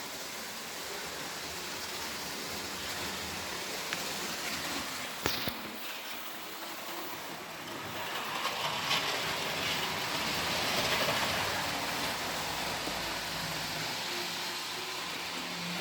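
Model trains running on a layout: a steady rushing noise of wheels and motors on the track, louder for a few seconds in the second half, with a sharp click about five seconds in.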